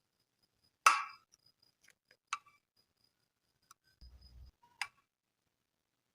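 A sharp, ringing clink of a hard object such as dishware being set down, followed by two lighter clicks and a brief low rumble, over a faint high ticking about three times a second.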